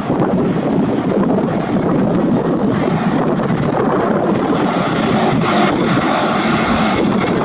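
Jet engines of an Airbus A321neo airliner coming in to land: a loud, steady rushing roar.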